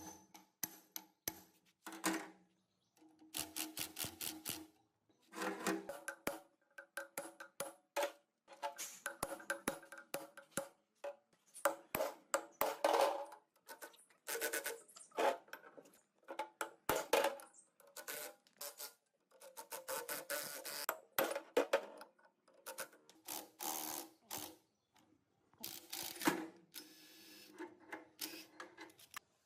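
Metal parts being knocked and handled in quick clusters of sharp taps and clanks, each with a short ring at the same few pitches, separated by brief silences.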